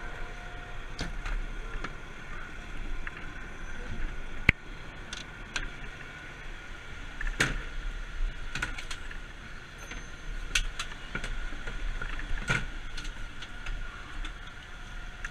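A vehicle running with a steady low rumble, with scattered knocks and clicks over it.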